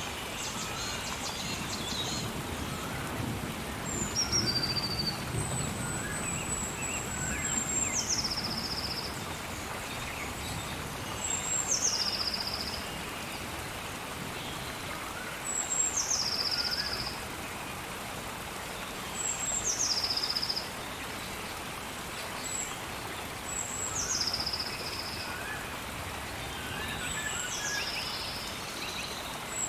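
Steady rain with a bird calling over it about every four seconds: each call a high held whistle that drops abruptly to a lower note. A low rumble sits under the rain in the first few seconds.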